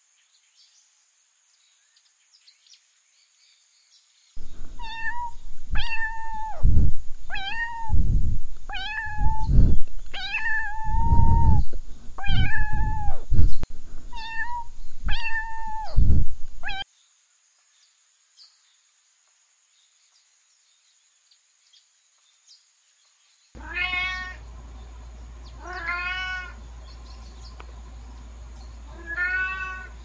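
Domestic cat meowing: about ten short, high mews from a kitten in quick succession, roughly one a second. After a silent pause of several seconds come three longer, lower meows, with a faint steady hum beneath them.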